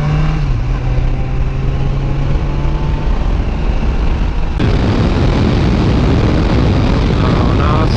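Motorcycle engine running steadily under a heavy rush of wind noise. About four and a half seconds in the sound changes suddenly to a louder, denser rush of wind and road noise.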